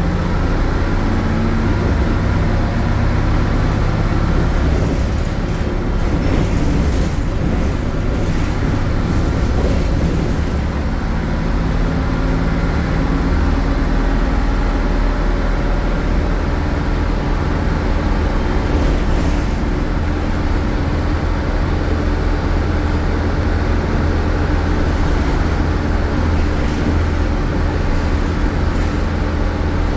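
MAN A76 Lion's City city bus's MAN Euro 4 diesel engine running loudly, its note shifting in pitch about twelve seconds in, with a few brief rattles.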